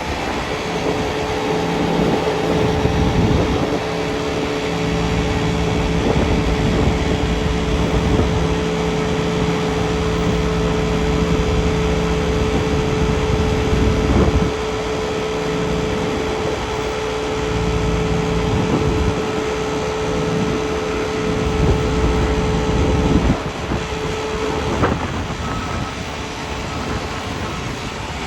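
A United Boeing 757-200 being pushed back on the ramp: a steady whine over a low, uneven mechanical rumble, with the rumble dropping away about 23 seconds in.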